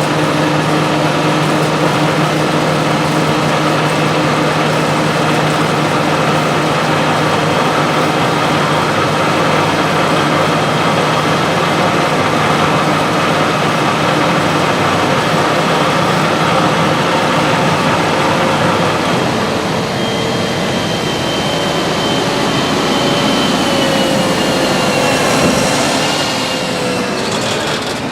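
Heavy farm machinery engines running steadily under load. In the last several seconds a machine passes close, its whine dropping in pitch as it goes by.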